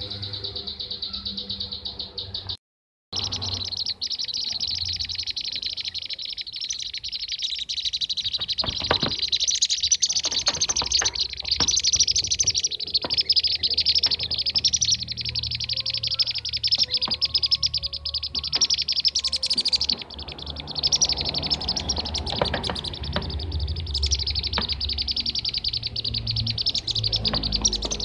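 Bee-eaters (kirik-kirik) chirping in a dense, rapid, unbroken chatter, a lure recording of their calls. It cuts out briefly just under three seconds in.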